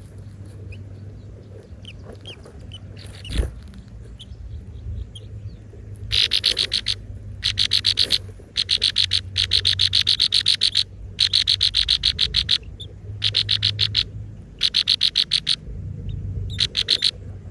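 Nestling birds begging: fast trains of high, pulsed chirps in bouts of one to two seconds, starting about six seconds in and repeating several times, over a steady low hum.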